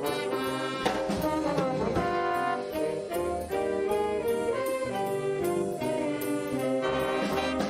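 A band playing a jazzy piece led by brass: trombones and trumpets sounding chords over a steady beat.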